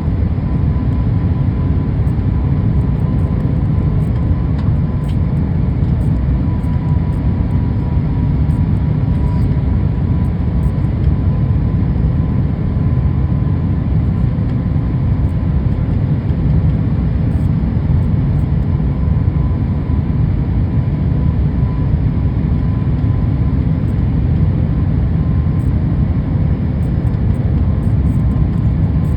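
Jet airliner cabin noise on approach to landing: a steady low rumble of engines and airflow, with a faint steady whine above it.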